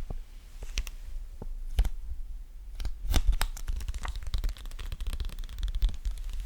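Close-up sticky peeling sounds: sharp tacky clicks and crackles, sparse at first and turning into dense crackling about three seconds in.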